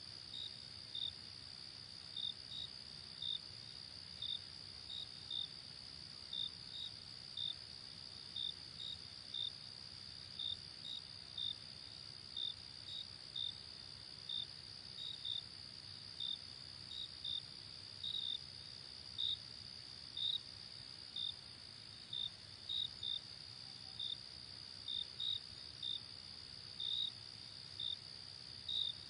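Night crickets chirping: short chirps about one and a half times a second, some in quick pairs, over a continuous high insect trill.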